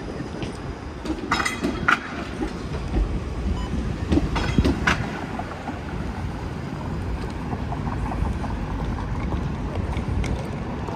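A rail vehicle rolling past with a steady low rumble and a few sharp clacks, a cluster around two seconds in and another about four and a half seconds in.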